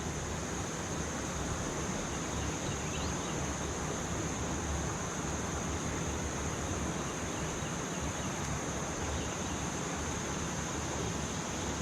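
Steady outdoor ambience: a constant high-pitched insect drone over an even hiss of flowing river water.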